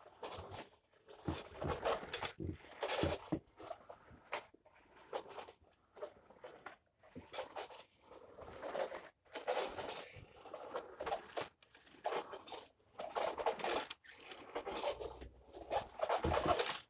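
Switched-off Dyson DC07 upright vacuum pushed back and forth over the floor: uneven rustling, rolling strokes every second or two, with no motor running.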